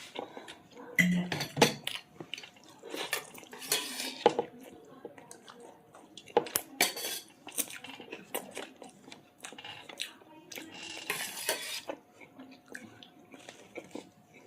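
Irregular clinks and scrapes of a plate and utensils or fingers while eating chicken curry with rice and roti, close to the microphone. There are louder clusters about a second in, around four seconds and near eleven seconds.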